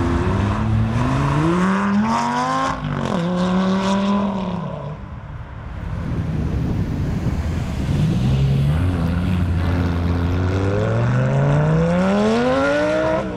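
Lamborghini Gallardo LP560's V10 engine with a Fabspeed aftermarket exhaust, revving hard. The pitch climbs and drops sharply about three seconds in, eases off for a moment, then settles before a long climb near the end.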